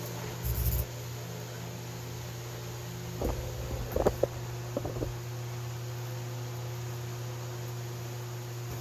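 VEVOR 12-inch shutter exhaust fan running with a steady hum. A dull thump comes under a second in, and a few knocks and clatters come between about three and five seconds in.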